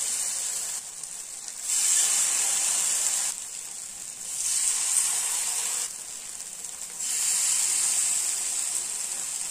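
Marinated chicken chops sizzling in oil on a hot tawa. The sizzle swells loudly three times as more chops are laid on, easing in between.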